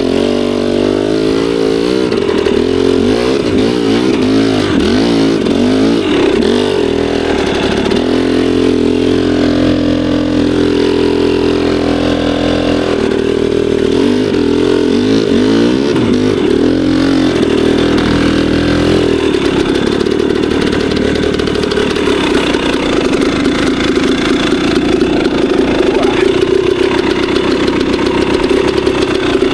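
Two-stroke dirt bike engine being ridden, revving up and down in quick swells with the pitch rising and falling every second or so. Near the two-thirds mark it settles into a steadier, higher-pitched run.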